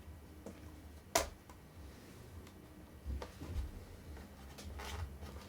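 Small clicks and taps of screwdriver work on the screws holding a laptop screen, with one sharp click about a second in and fainter ones later, over low handling rumble.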